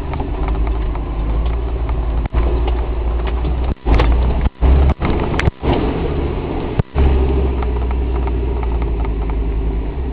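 Land Rover 110's V8 engine running at low speed off-road, heard from inside the cab as a steady, heavy low rumble. The sound cuts out for an instant several times in the middle stretch.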